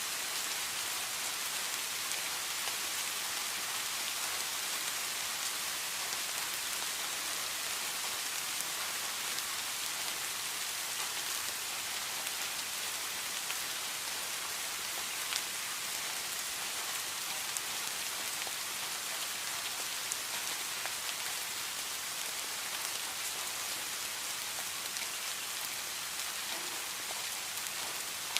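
Steady rain falling, an even hiss with faint individual drops ticking now and then.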